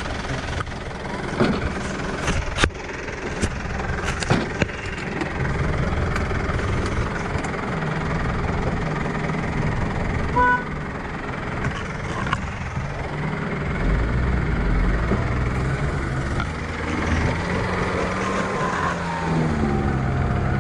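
Vehicle engine running steadily, with a few sharp knocks in the first few seconds and a short beep about halfway through.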